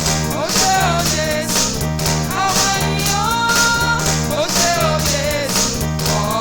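Live praise-band music: a steady drum beat and a repeating bass line, with a gliding melodic lead over them.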